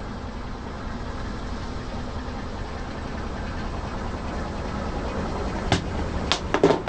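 Car engine idling with a low, steady rumble. Near the end, a quick run of sharp cracks and crunches starts, typical of brittle material breaking under a tyre.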